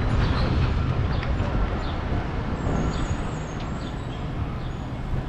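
City street traffic: a steady rumble of passing vehicles, with a brief faint high-pitched squeal about three seconds in.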